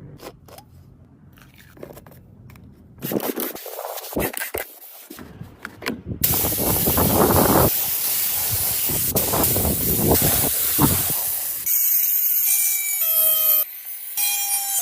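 Quiet scraping and clicks, then about six seconds in a loud, steady spraying hiss sets in, typical of compressed-air spraying on restoration work. Near the end several steady whining tones come in over it, changing pitch in steps.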